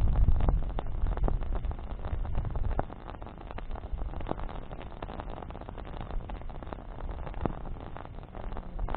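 Campfire of burning branches crackling, with irregular sharp pops and snaps. A low rumble is heavy for the first three seconds, then eases off.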